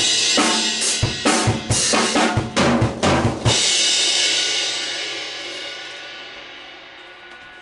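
Acoustic drum kit playing a rock beat, with kick drum, snare and cymbals. The beat stops about three and a half seconds in on a final cymbal crash that rings out and slowly fades.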